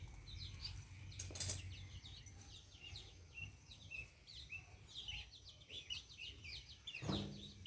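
Many small birds chirping, with short overlapping chirps and peeps throughout. A sharp knock about a second and a half in and a brief louder rustling sound near the end.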